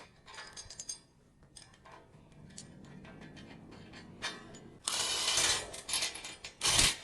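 Small metal clicks as a nut is threaded onto the bolt of a homemade C-shaped clamp, then a louder run of ratcheting clicks from about five seconds in as the clamp is tightened down on the sheet metal.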